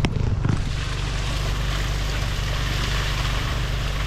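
Engine-driven drain-clearing machine running steadily, a constant low engine hum under a rushing hiss of water and air, with one short knock at the very start.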